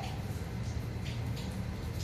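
Light rain falling, with scattered drip-like ticks over a steady low rumble.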